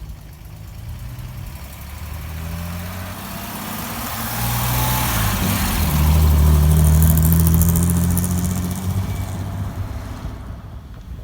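A car engine passing close by: its note grows louder with a change in pitch about halfway, is loudest roughly six to eight seconds in, then fades away.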